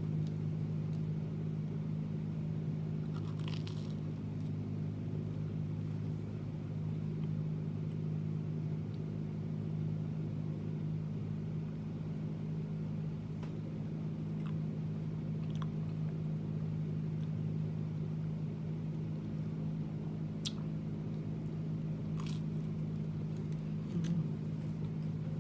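A person biting into and chewing a toast sandwich, with a few faint crunches of the toast, over a steady low hum.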